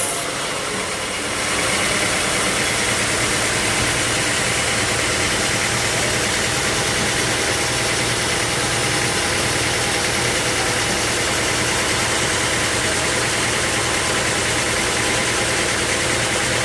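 Sawmill machinery running steadily: a motor hum under a dense hiss, dipping briefly in the first second before holding even.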